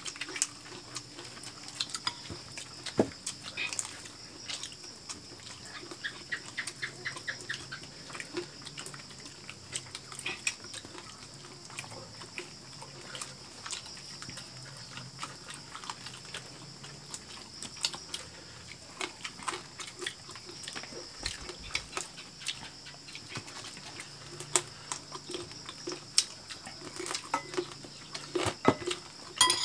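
People eating fried chicken with their hands: close, wet chewing and lip-smacking with scattered clicks of fingers, bones and plates, over a steady high-pitched whine in the background.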